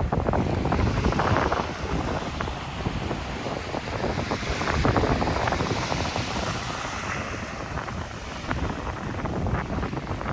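Wind buffeting the microphone in gusts, a low rumble over the wash of surf.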